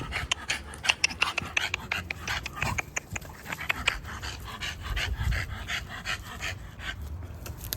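American bully puppy panting rapidly, in quick irregular breaths.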